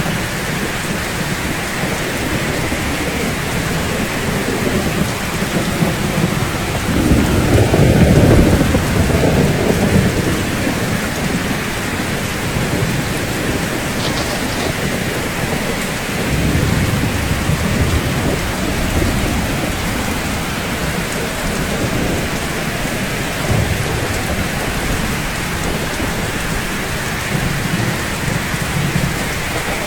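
Steady rain falling in an even hiss, with low rolls of thunder rumbling under it: the strongest about a quarter of the way in, weaker ones around the middle and later.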